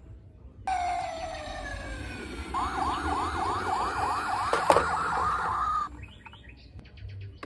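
Toy emergency vehicle's electronic siren: a single falling tone about a second in, then a fast yelping wail of about five sweeps a second that cuts off suddenly near the end, with a sharp click partway through.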